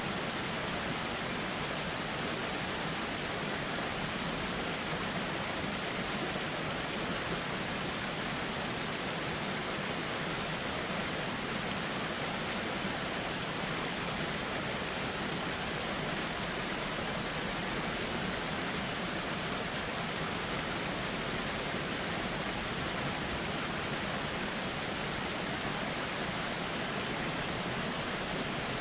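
A river flowing steadily, an even rush of water with no changes or separate sounds.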